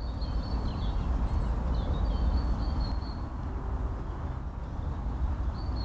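Birds chirping in short high calls, over a steady low rumble. The chirps come through the first three seconds and again near the end.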